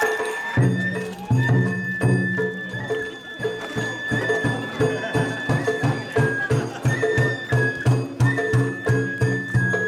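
Japanese festival hayashi: a bamboo flute holds a high, slightly wavering note over a fast, steady beat of taiko drums, which come in about half a second in.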